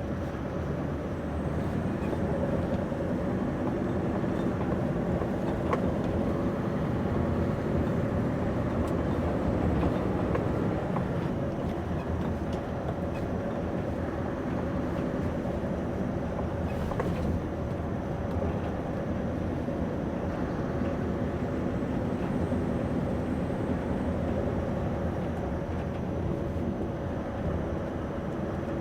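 Scania V8 engine and road noise of a heavily loaded 80-tonne low loader lorry, heard from inside the cab. It runs as a steady drone with a constant whine through it.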